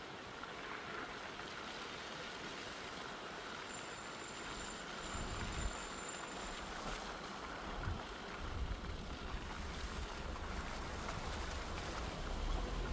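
Steady rushing noise, with wind buffeting the microphone starting about five seconds in and getting stronger toward the end.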